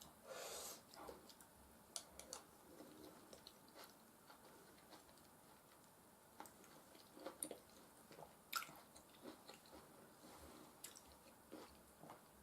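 Faint, close-miked chewing of soft food (mashed potatoes and beef stew), with scattered wet mouth clicks. There is a short rush of noise in the first second and a sharper click about eight and a half seconds in.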